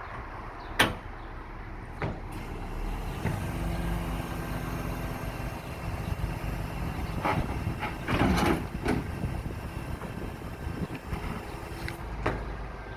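Scania R500 truck's V8 diesel running steadily, its hum building about three seconds in, with sharp metallic clanks over it: a single loud clank about a second in and a cluster of clanks around eight seconds.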